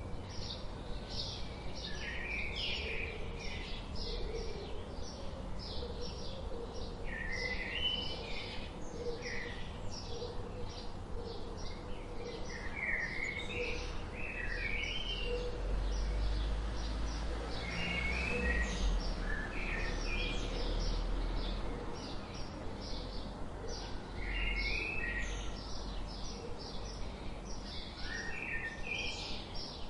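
Birds chirping: a rapid run of short high chirps throughout, with several warbled song phrases lower in pitch every few seconds. Under it is a low rumble that grows louder in the middle for a few seconds.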